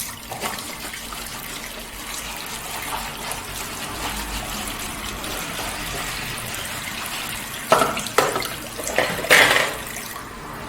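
Kitchen tap running steadily into the sink during dishwashing, with a few sharp clatters of dishes near the end.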